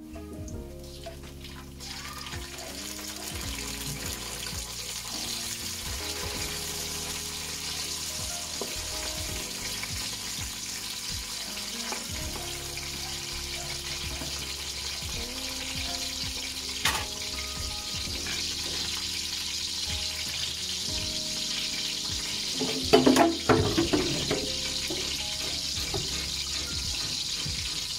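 Tomatoes, onion and garlic frying in oil in a steel wok: a steady sizzle that builds over the first couple of seconds after the tomatoes go in. There is a short clatter about 23 seconds in, over background music.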